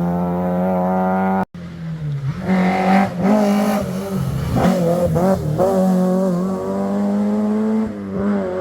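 Historic rally car engine running flat out at high revs until an abrupt cut. Then another rally car's engine revs up and down through throttle lifts and gear changes, and settles into a steady high-rev run near the end.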